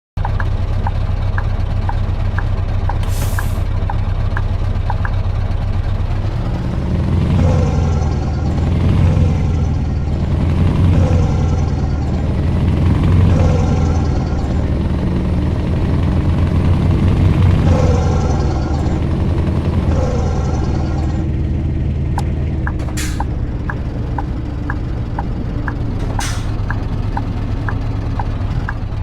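Scania V8 truck engine running, with a steady fast ticking over it at first. About seven seconds in, the engine revs rise and fall again and again for roughly fourteen seconds as the truck pulls through several gear changes, then it settles back to a steady run with the ticking again. A few short hisses of air come through.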